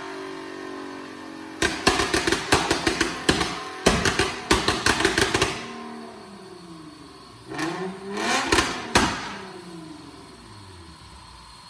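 Nissan 370Z's 3.7-litre V6 engine running on a dyno, blipped repeatedly. A few seconds of rapid, irregular sharp cracks come first. Then a couple of revs whose pitch drops and climbs again, with a few more cracks, before it settles back toward idle.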